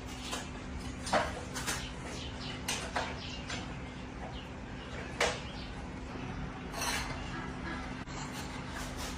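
Irregular light knocks and clicks of tools and bicycle parts being handled, about a dozen over several seconds, over a steady low hum.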